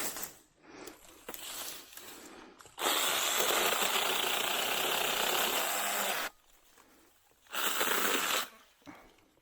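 Cordless 6-inch mini chainsaw on a DeWalt battery running in two bursts, cutting a small Chinese tallow sapling: a steady run of about three seconds, then a second run of about a second.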